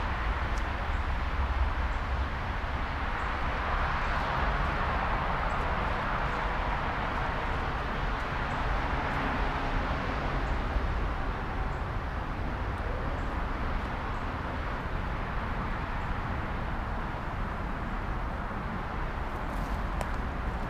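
Steady outdoor background noise, a broad hiss over a low rumble, swelling a little a few seconds in and again near the middle.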